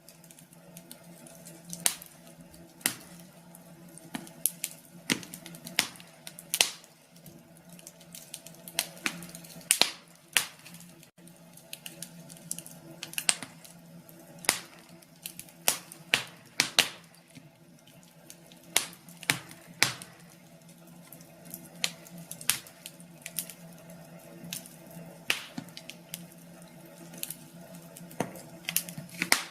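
Wood fire crackling, with irregular sharp pops and snaps at uneven intervals over a steady low hum.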